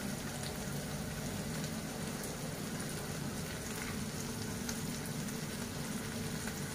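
Onions, tomatoes and cashews frying in oil in a nonstick kadai: a steady sizzle with a few faint pops.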